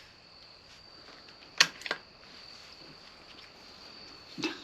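Sharp mechanical clicks from a CZ 457 .22 LR bolt-action rifle being loaded: one loud click, then two softer ones in quick succession, and a few more near the end.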